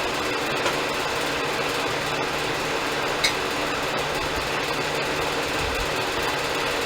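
Band sawmill running with a steady mechanical noise and hum; a brief high squeak about three seconds in.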